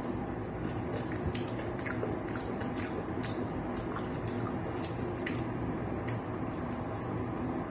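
Close-up mukbang eating sounds: wet, sticky chewing and biting of sauce-glazed chicken wings and pork pata, heard as irregular small clicks and smacks.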